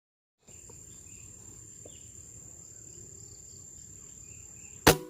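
Insects chirring steadily with a constant high-pitched buzz, with faint bird chirps in the background. A single sharp crack comes near the end.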